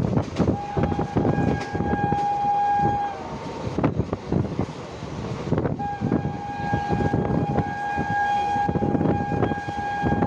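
Train horn sounding two long blasts, the second about twice as long as the first, over the rumble and clatter of the train running on the rails.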